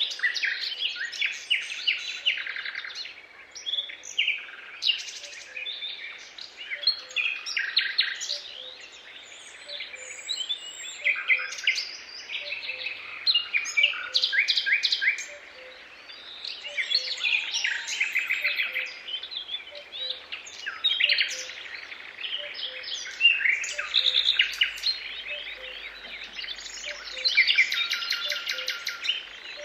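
Several songbirds singing at once, with overlapping chirps and rapid trills. A faint, evenly repeated low note runs underneath.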